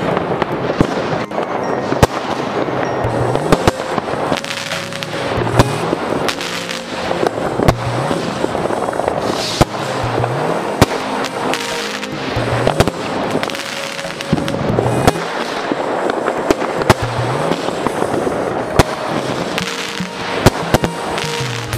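Fireworks going off: many sharp bangs at irregular intervals over a continuous crackle and hiss of bursting shells.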